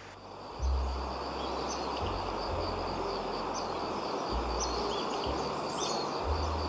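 Outdoor nature ambience: a steady high-pitched insect trill with scattered short chirps, over a noisy hiss and low rumbling gusts on the microphone that start about half a second in.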